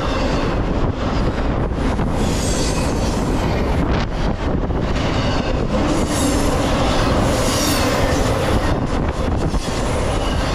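Intermodal freight cars, container well cars and trailers on flatcars, rolling past close by: a steady rumble and clatter of steel wheels on the rails. A high wheel squeal comes in twice.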